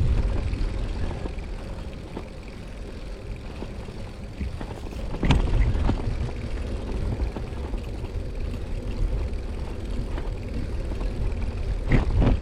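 Rumble of a Brompton folding bicycle being ridden, with wind on the microphone, and a sharp knock about five seconds in and another near the end.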